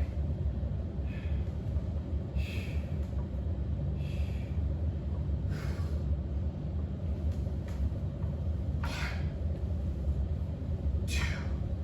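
A person breathing out in short, sharp puffs every second or two, the breaths of someone working through exercise reps, over a steady low rumble.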